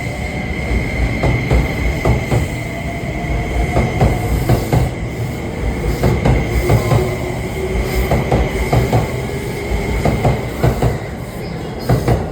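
E261 series Saphir Odoriko electric train pulling out of a station. Its wheels click and knock over rail joints in an uneven rhythm, with a steady high-pitched wheel squeal underneath.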